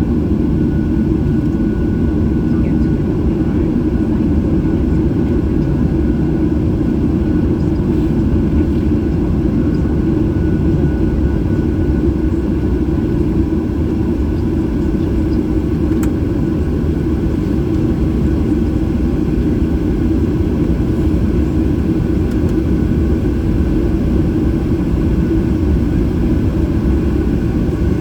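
Steady cabin rumble inside a Boeing 737-800, its CFM engines running at an even power, heard from a seat near the rear. A few faint steady whining tones ride over the low rumble, which neither rises nor falls.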